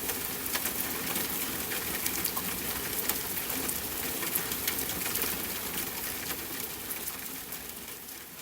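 Steady rain hiss mixed with the scattered sharp crackles of a wood fire burning in a fireplace, fading down near the end.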